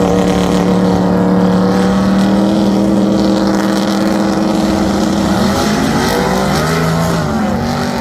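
Car engine running loud at steady high revs, its pitch held for about five seconds, then wavering and shifting in the last few seconds.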